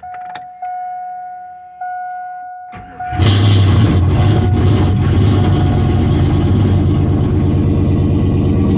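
An electronic warning chime sounds in repeated tones, then the truck's GM 5.3 V8 is cranked briefly and catches about three seconds in, running loudly and steadily. This is an engine said to have lost its oil through the rear main seal, in which the owner hears no knock.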